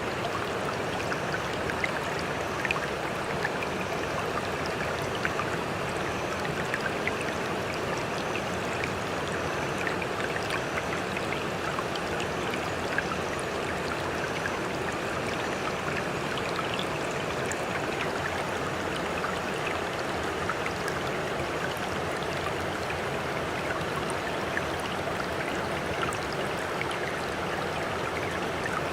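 Sea water splashing and trickling steadily, scattered with many small droplet ticks and without the rise and fall of breaking waves.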